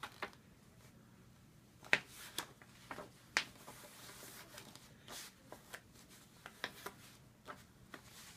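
A sheet of paper being folded in half and creased by hand: scattered crinkles, rustles and taps, the sharpest about two seconds in and again about three and a half seconds in.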